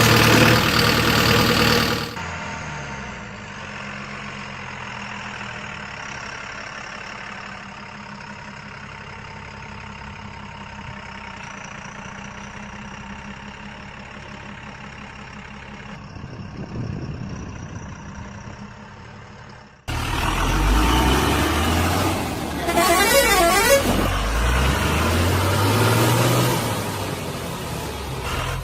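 Vehicle engines running and a horn honking, across several clips cut together. The last stretch is louder, with the pitch rising and falling.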